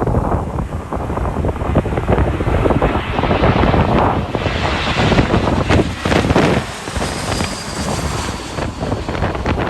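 Jet airliner passing on its landing approach, its engine noise swelling through the middle, mixed with wind buffeting the microphone. A faint high whine comes in near the end.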